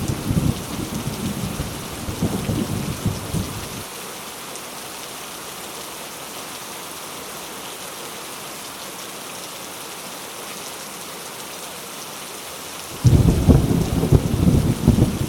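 Heavy rain falling steadily through a thunderstorm. A low rumble of thunder dies away over the first few seconds, then a new loud thunderclap breaks in suddenly near the end and keeps rumbling.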